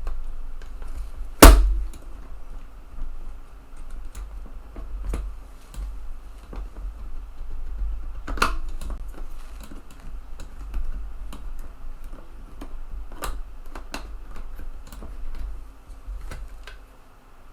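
Scattered clicks and taps from the eject mechanism of a TEAC FD-235F 3.5-inch floppy drive being pushed and worked by hand. The loudest, sharpest click comes about a second and a half in and another about halfway through, with a low handling rumble underneath. The mechanism is sticking and not releasing properly.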